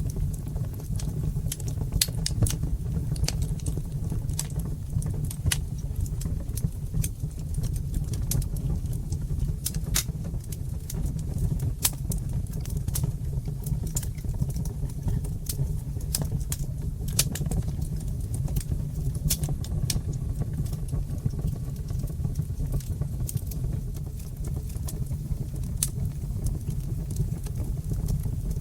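Wood fire in a fireplace crackling, with frequent irregular sharp pops and snaps over a steady low rumble of the burning fire.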